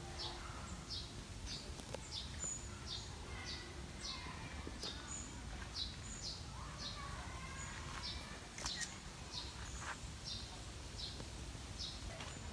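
A bird calling a short, high chirp over and over, about twice a second at an even pace, over steady low outdoor background noise.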